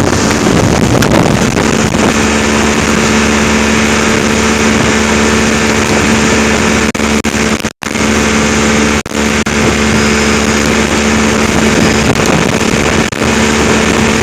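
Engine running at a steady speed under loud rushing wind and water noise, its drone settling to a steady pitch about two seconds in. The sound drops out for an instant a little past the middle.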